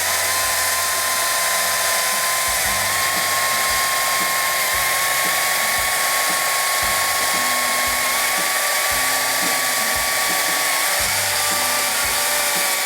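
Chainsaw held at full throttle through a long cut: a loud, steady high whine that wavers slightly in pitch as it works through the wood.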